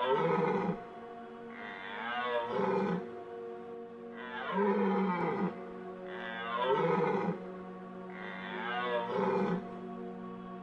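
An animal calling repeatedly, five calls about two seconds apart, each roughly a second long with a wavering pitch, over steady background music.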